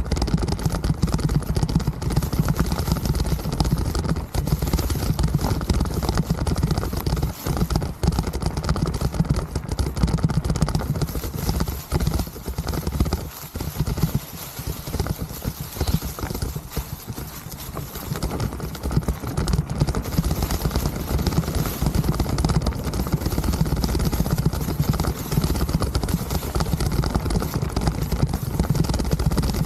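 Mountain bike rattling and clattering over a rough trail: a constant heavy rumble with rapid, close-set knocks.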